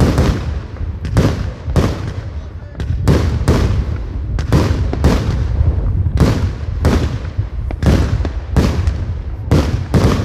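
Professional aerial fireworks: shells launching and bursting in quick succession, sharp bangs coming about one to two a second, each trailing off briefly, over a constant low rumble.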